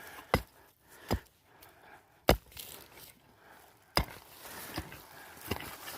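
A digging tool chopping into soil and roots with six sharp strikes at uneven intervals, digging up a ginseng root.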